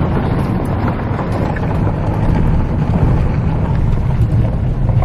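Toyota Tundra pickup driving on a dirt off-road trail: a steady low rumble of engine and tyres, with wind noise on the microphone.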